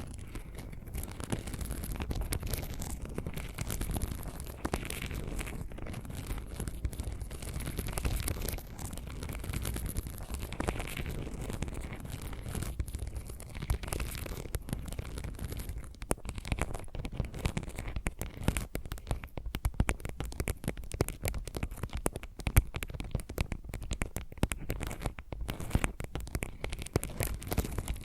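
Fingernail scratching and tapping ASMR triggers, two recordings layered in the left and right channels: a dense, unbroken stream of fast scratchy strokes and small clicks, the clicks sharper in the second half.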